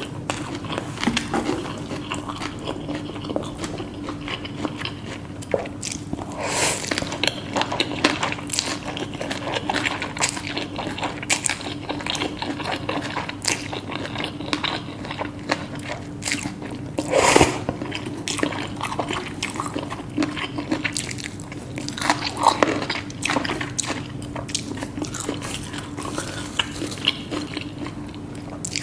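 Close-miked eating: biting and chewing with crisp crunches and wet mouth clicks, the loudest crunch about seventeen seconds in. A faint steady hum runs underneath.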